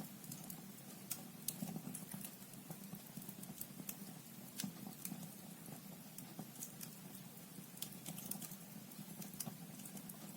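Firewood logs burning in a fireplace, crackling with irregular sharp pops and snaps, over a faint steady low hum.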